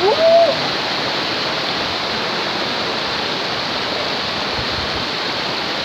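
Steady rushing of the Kabut Pelangi waterfall, an even unbroken noise, with one short pitched call right at the start.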